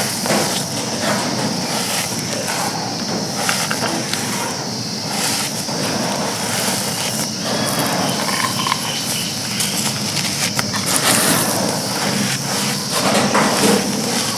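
Dry, grainy chunks being crumbled and crushed, giving a dense, continuous crunching crackle of many small snaps.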